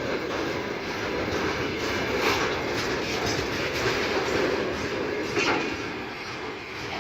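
Freight train rolling past: a steady rumble of steel wheels on rail with a few sharper clacks over rail joints, easing off slightly near the end.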